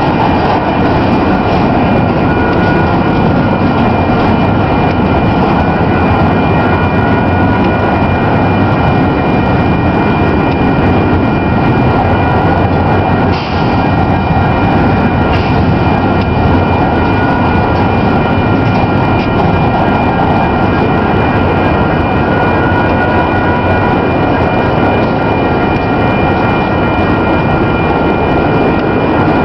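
Union Pacific double-stack container train's well cars rolling past close by: a loud, steady rumble of steel wheels on the rails, with a few steady high-pitched tones held over it.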